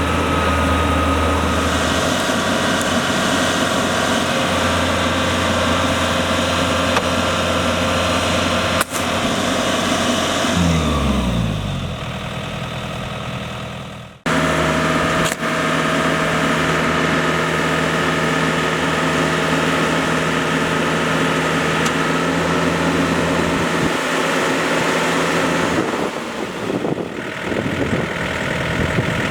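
Diesel engine of a tractor or rice harvester running steadily, then slowing with a falling pitch about a third of the way in. The sound breaks off abruptly and steady engine running picks up again.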